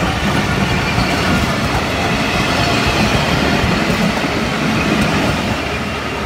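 Passenger train coaches passing close by at speed, their wheels running over the rails in a loud, steady rumble and clatter. The sound eases a little near the end as the last coach goes by.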